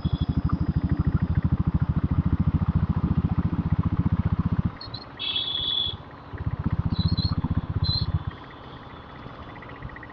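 Diesel Royal Enfield Bullet's single-cylinder diesel engine thudding in a fast, even beat on the move. The beat drops away about halfway through, comes back for about two seconds, then fades again. A few short high-pitched sounds come in around the middle.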